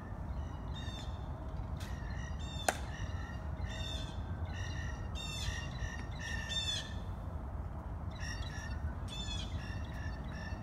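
Birds calling over and over in short, harsh, repeated calls, with a single sharp click about a quarter of the way in.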